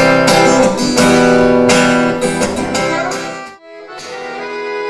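Acoustic guitars strummed and picked in the instrumental lead-in to a sertanejo-style song, with a brief drop in loudness about three and a half seconds in before the playing carries on.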